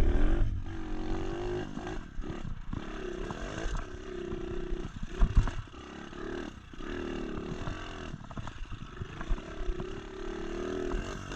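Single-cylinder four-stroke engine of an SSR 125 pit bike being ridden, its revs rising and falling over and over as the throttle is opened and shut, with brief drops between pulls. A single sharp knock about five seconds in.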